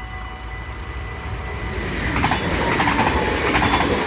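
Yellow-and-blue NS double-decker electric passenger train approaching and passing a level crossing. Its rumble grows louder from about two seconds in, with wheels clattering over the rail joints.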